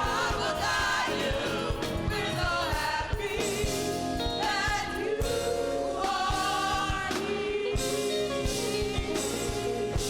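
Gospel choir singing over a band with a steady beat, long held notes with vibrato.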